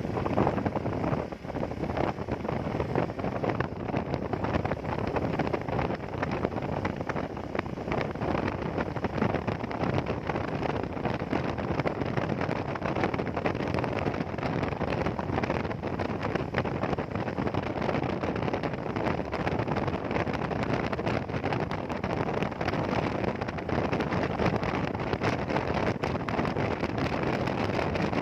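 Steady wind rushing over a rider's microphone on a moving motorcycle, with road and engine noise blended beneath it.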